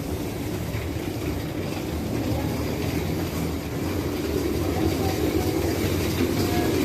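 Steady low rumble and rattle of a moving vehicle.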